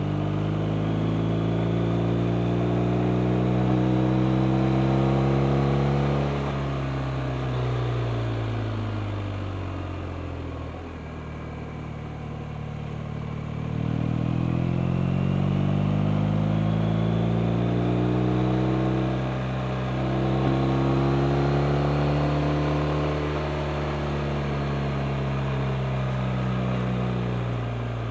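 BMW R 1250 RT's boxer-twin engine under way. It accelerates with rising pitch for the first several seconds, then eases off and slows for about five seconds, pulls hard again from about fourteen seconds in with a brief dip around twenty seconds, and falls off again near the end.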